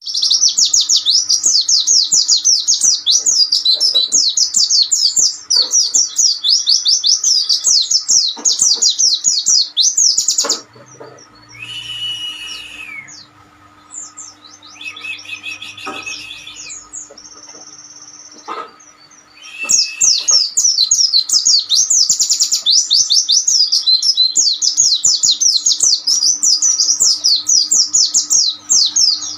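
Songbird tutor song: a fast, high-pitched, unbroken run of chirps and trills, meant for training pleci (white-eye) birds. About ten seconds in it drops to shorter, quieter separate calls, and the fast song returns about twenty seconds in. A faint steady hum lies underneath.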